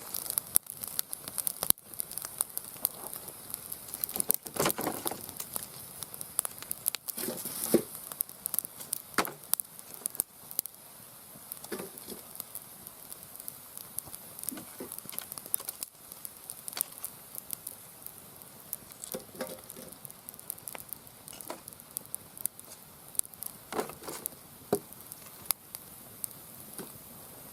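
Campfire burning, crackling with a dense run of small sharp snaps and a few louder pops.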